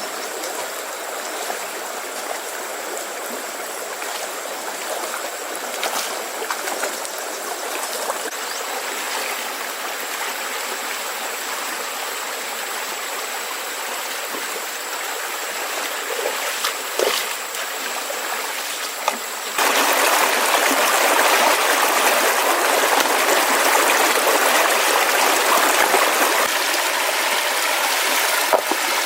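Stream water running steadily over rocks, with a few light knocks in the first part. About two-thirds of the way through it jumps suddenly louder and fuller, as if the water is heard much closer.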